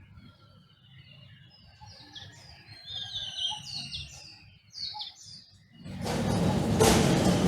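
Songbirds chirping and calling in short, falling whistled notes and trills. About six seconds in, a loud rushing noise swells up and drowns them out.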